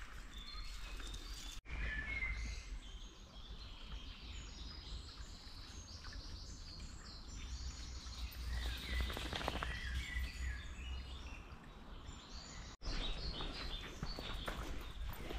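Songbirds singing in the woods: many short chirps and warbled phrases from several birds over a steady low rumble. The sound drops out for a split second twice, near the start and near the end.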